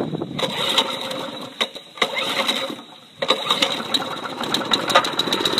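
Small Honda push-mower engine pull-started on choke, sputtering and running with a short dip about three seconds in, then running steadily with a rapid ticking beat.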